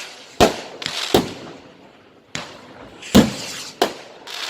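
Fireworks going off in a display: about six sharp bangs at uneven intervals, each with a short echoing tail, the loudest a little after three seconds in.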